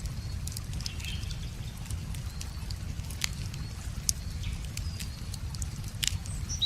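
Wood fire crackling with scattered sharp pops and snaps, over a steady low rush of a river, with a few short bird chirps.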